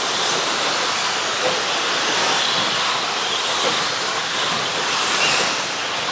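A field of 1/10-scale electric stadium trucks with 13.5-turn brushless motors racing: a steady hissing rush of motor whine and tyres on the track, with faint whines drifting up and down in pitch as the trucks accelerate and slow.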